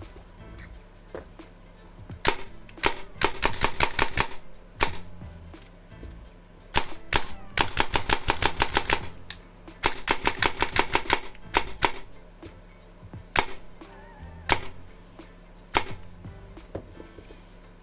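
Krytac Kriss Vector airsoft electric gun with a dual-sector-gear gearbox and Perun trigger electronics firing. It fires single semi-auto shots, then three rapid full-auto bursts of about a second each, then more spaced single shots near the end.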